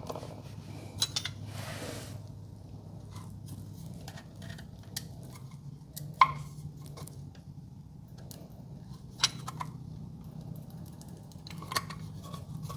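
Scattered light metallic clicks and clinks of garage door hinge parts being handled as a greased piece is worked into a hinge, with a few sharper knocks, over a steady low hum.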